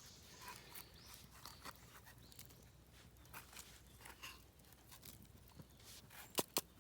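Faint scattered rustling and crunching of dry wood shavings and leaf litter being gathered up, with two sharper snaps about six seconds in.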